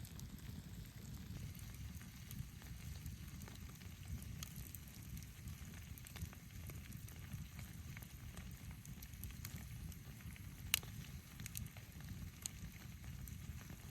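Wood campfire crackling: scattered sharp pops, one louder pop about ten seconds in, over a steady low rumble.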